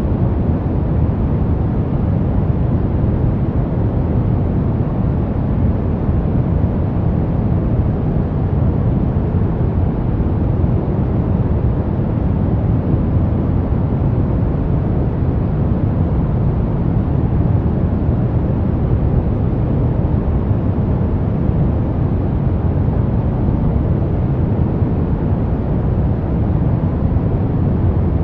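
Brown noise: a steady, deep rumbling hiss, strongest in the bass and fading toward the treble, with no change in level.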